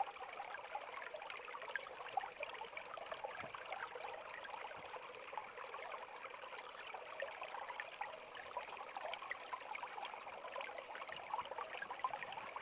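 River water flowing: a steady rushing hiss full of small splashes and gurgles.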